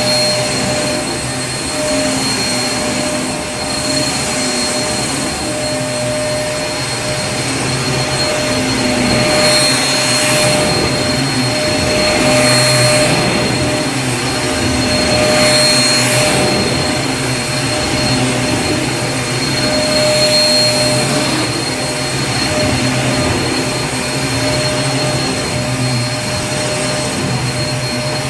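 Vacuum cleaner running steadily, a constant whine over a low motor hum, with the rushing air swelling a little louder every few seconds.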